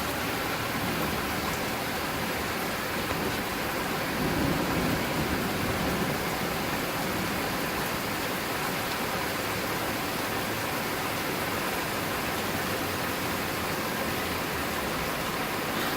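Heavy rain pouring down steadily in a thunderstorm, with a brief low swell about four seconds in.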